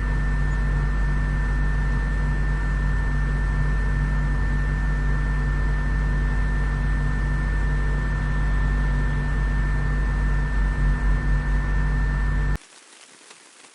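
Steady machinery drone: a strong low hum with a thin high whine above it. It cuts off abruptly about twelve and a half seconds in, leaving a faint hiss.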